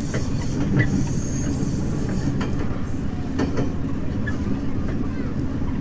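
Diesel railcar running along the track, heard from on board: a steady low rumble of engine and wheels, with scattered clicks from the wheels passing over the rails.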